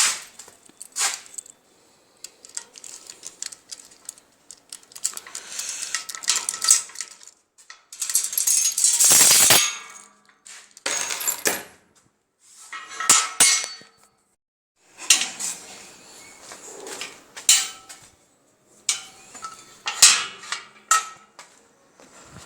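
Clinks, knocks and clatter of small hard objects being handled, in irregular bursts, with a longer scraping rush about eight seconds in.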